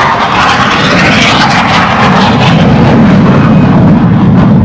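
F-16 fighter jet's engine roaring loudly as the jet passes, the sound sliding from a higher, hissing roar to a deep rumble.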